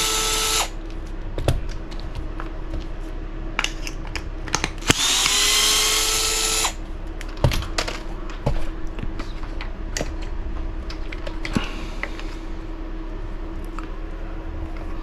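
Small power screwdriver whirring in short bursts. One burst ends just under a second in. Another starts about five seconds in, rises in pitch and runs for about two seconds. In between and after, there are light clicks of small parts being handled.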